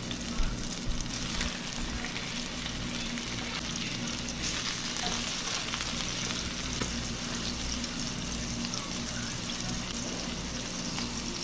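Food frying on a hot cast iron skillet: a steady sizzle.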